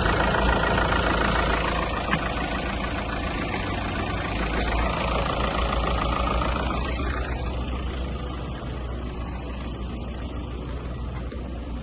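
A Seat Toledo's 2.0 TDI pumpe-düse four-cylinder diesel (BKD) is running on test. It idles, picks up slightly about four seconds in, and drops back quieter to idle about seven seconds in.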